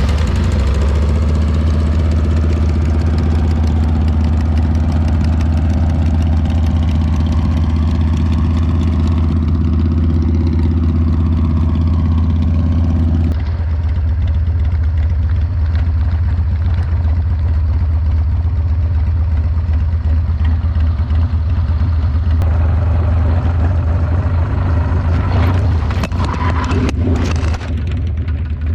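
Motorcycle engines running at riding speed: a loud, steady low drone with a rushing haze over it. About thirteen seconds in, the higher part of the sound drops away and the low drone carries on.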